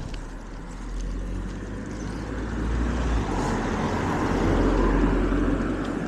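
A car passes close by, its tyre and engine noise swelling to a peak about four to five seconds in and then fading, over wind rumbling on the microphone.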